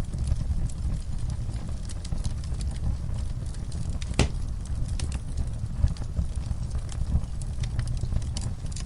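Wood fire in a fireplace crackling, with a steady low rumble of the flames and scattered irregular pops and snaps; one sharper pop stands out about four seconds in.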